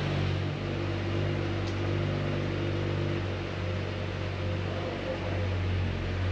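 Lamborghini Murciélago LP670-4 SV's V12 engine idling steadily, heard from inside the cabin as a low, even hum.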